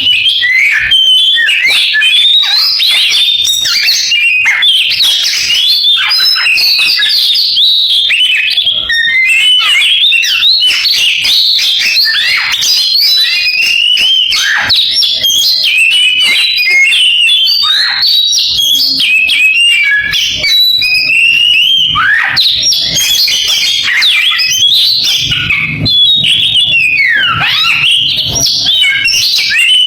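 Oriental magpie-robin (kacer) singing a continuous, rapid song of whistled notes, trills and sweeping glides in a canary-like style.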